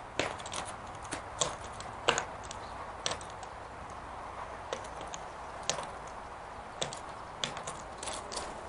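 Irregular sharp taps and clicks over a steady hiss: a California scrub jay pecking at and picking over peanuts on a porch.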